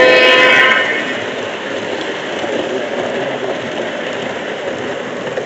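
A model locomotive's sound-system horn holds a steady multi-note chord that cuts off under a second in. After it comes a steady rushing rumble of model trains running on the track.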